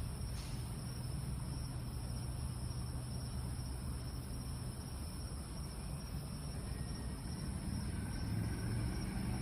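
Night ambience: a steady high insect chorus, like crickets, over a low steady rumble.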